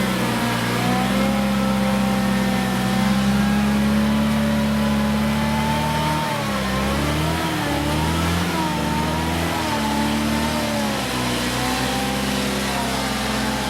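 Engine of a prepared off-road competition vehicle running steadily, then revving up and down about six seconds in and again near the end as it works through the course.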